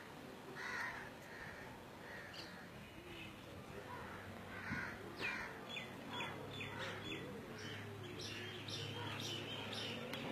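Birds calling outdoors: scattered hoarse caws in the first few seconds, then a quick run of short falling chirps a little past the middle and more short high calls after it.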